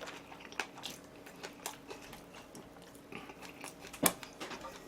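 Close-miked chewing of a mouthful of charcoal-grilled jokbal (pigs' trotters) wrapped in a leaf, with wet mouth clicks and smacks and one sharp click about four seconds in.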